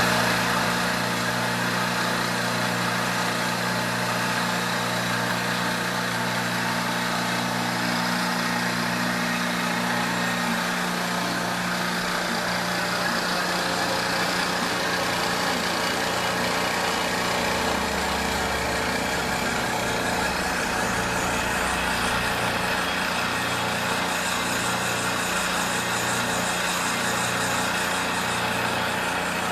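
Milling machine running and cutting a steel backhoe part: a steady motor hum under a constant noise of the cutter, with a low, even pulsing that comes in about twelve seconds in.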